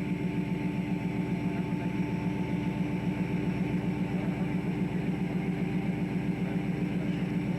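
Fishing boat's diesel engine running steadily, a continuous low pulsing hum with a few steady tones over it.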